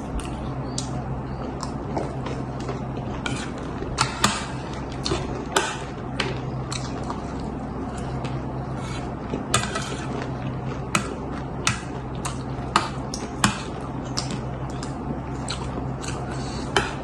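Spoons clinking and scraping on plates while chatpate is eaten: irregular light clicks every second or so, over a steady low hum.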